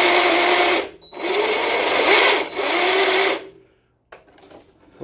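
3D-printed geared collet spinner running under power in three loud bursts, its gears giving a whirring whine that rises in pitch as it spins up; it stops about three and a half seconds in.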